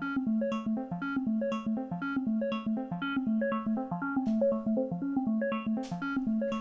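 Waldorf Iridium wavetable synthesizer playing a looping step-sequencer pattern: short plucked notes, about six or seven a second, hopping between a few low pitches. Two brief hissy accents come through near the end.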